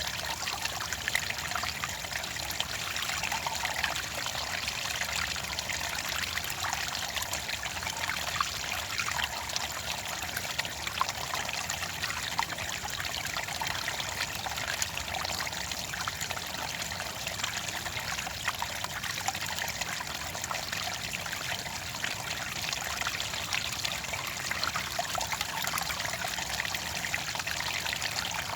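Clear water trickling and splashing steadily, a small stream or spill of water running over stones, with a fine continuous patter of droplets.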